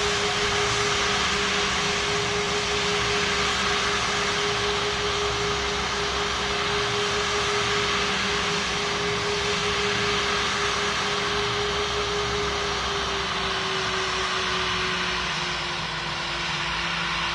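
Boeing 777 jet engines heard from inside the passenger cabin: a steady rushing roar with a steady whine, which dips slightly in pitch as the sound eases a little near the end.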